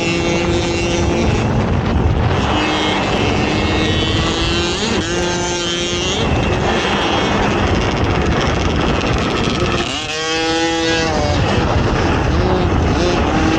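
Racing ATV engine being ridden hard, its revs climbing and dropping again and again with throttle and shifts, over a constant rushing noise.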